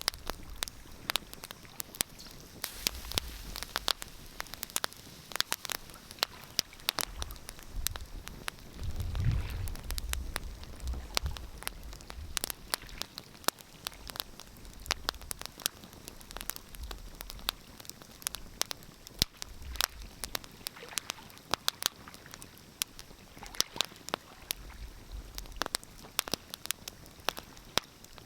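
Wood fire crackling, with frequent sharp pops and snaps at irregular intervals. A low rumble swells now and then, strongest about nine seconds in.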